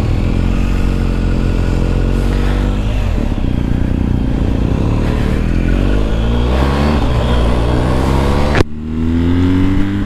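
BMW GS boxer-twin motorcycle engine pulling through the gears with wind noise. Its pitch rises, drops at a shift about three seconds in, then climbs again. Near the end a sharp click is followed by an abrupt change in the sound.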